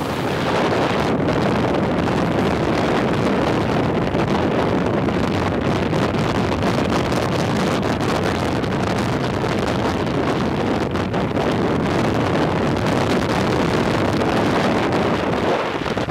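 Wind rushing and buffeting over the microphone aboard a moving motorboat, a steady loud noise, with the boat's motor and water running underneath.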